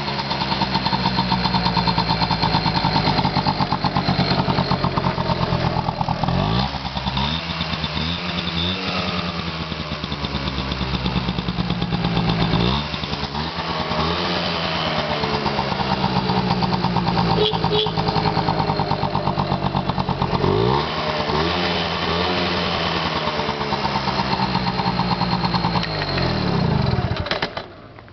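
Honda Motocompo's 49 cc two-stroke single-cylinder engine running, blipped up and back down several times, then shut off near the end.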